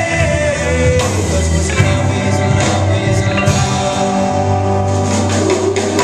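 Live rock band playing with electric guitar and drums, a held sung or played melody line over them.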